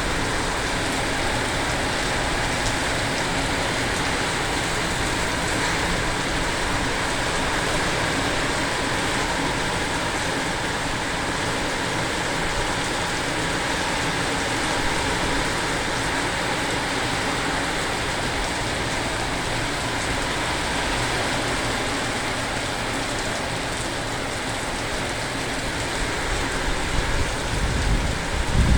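Heavy rain falling, a steady even hiss. Near the end a low rumble builds under it.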